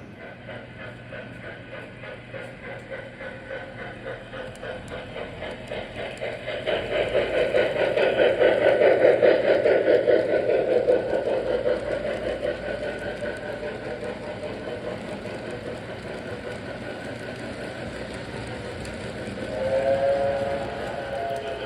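Model electric train running on track, its wheels clicking steadily over the rails, growing louder as it passes close and then easing off. Near the end the train's whistle sounds once, briefly.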